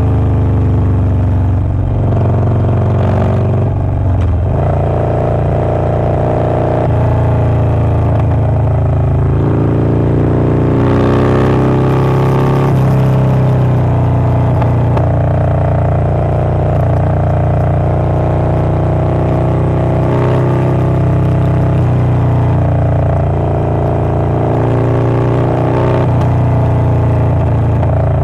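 Harley-Davidson Low Rider S's Milwaukee-Eight 117 V-twin with a Wood Performance 777XE cam running loud, its note rising and falling with the throttle, with a stronger rise about eleven seconds in.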